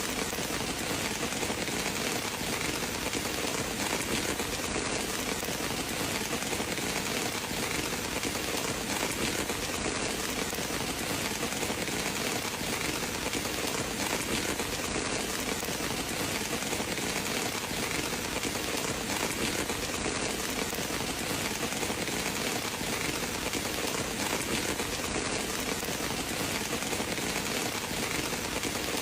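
Steady rain falling on a surface, an even hiss that does not let up.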